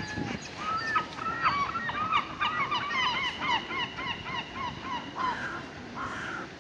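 A flock of water birds calling at once: many short calls, each falling in pitch, tumbling over one another in quick succession, busiest in the middle and thinning out near the end.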